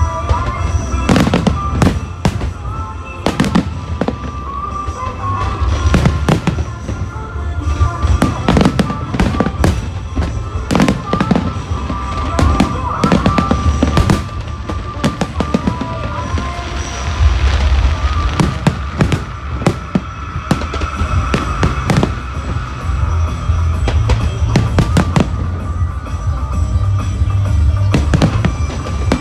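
Aerial fireworks going off in quick, irregular succession: many bangs and crackles overlapping throughout, with music playing underneath.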